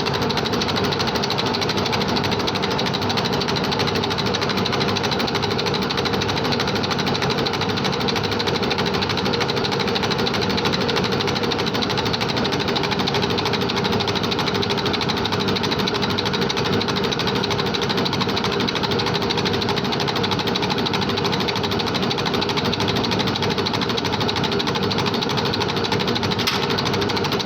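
Fiat 640 tractor diesel injection pump running on a test bench, a steady, fast mechanical clatter, while its fuel delivery is measured for calibration.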